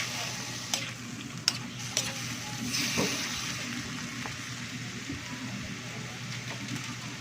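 Chicken pieces sizzling in soy sauce in a cooking pot while being stirred, with a few sharp clicks of the spoon against the pot.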